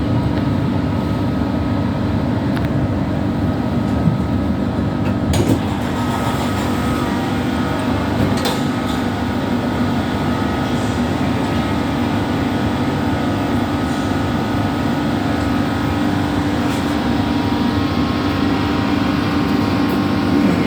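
Inside a Doha Metro train carriage: the train's steady rumble and hum, with a thin whine joining about five seconds in and a few sharp clicks.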